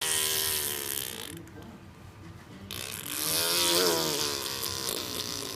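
A baby vocalizing in two long, breathy, pitched sounds: one at the start, and a second beginning near the middle whose pitch rises and falls.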